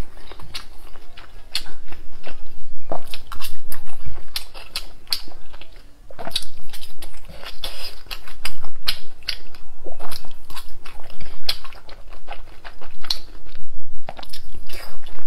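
Close-miked chewing and biting of dumplings in chili oil: a dense run of short, sharp mouth clicks and smacks.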